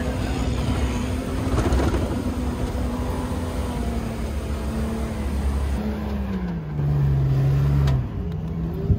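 Jeep engine running steadily while driving on sand; about two-thirds of the way through its pitch drops and holds lower, and the sound is louder for a second or so before changing abruptly.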